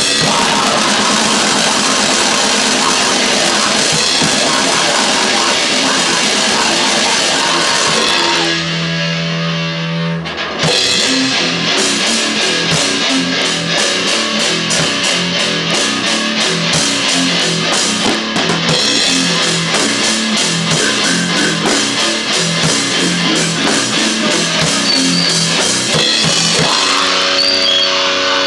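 Loud, distorted grindcore/noise rock with drums and electric guitar. It drops to a held guitar chord for about two seconds partway through, then comes back in with fast, even drum and guitar strokes.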